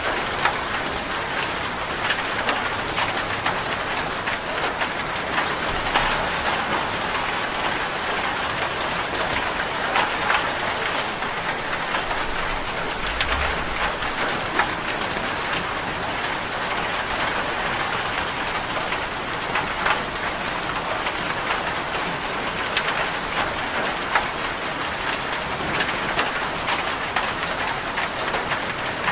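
Steady rain: an even hiss of rainfall with scattered sharper drop taps.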